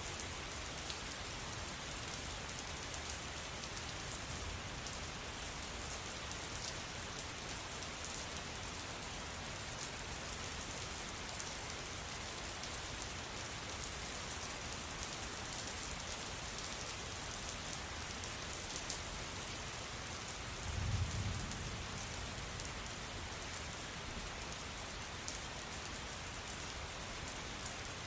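Steady rain falling, with scattered high drip ticks, and a brief low rumble about three quarters of the way through.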